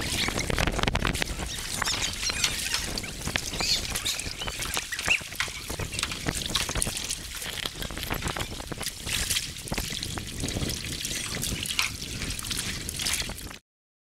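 River water splashing and trickling, with many small sharp splashes, cutting off suddenly near the end.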